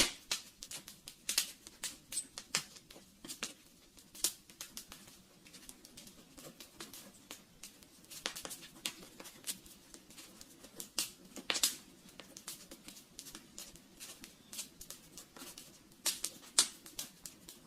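Wood fire crackling quietly: irregular sharp pops and snaps, a few of them louder, over a faint low hiss.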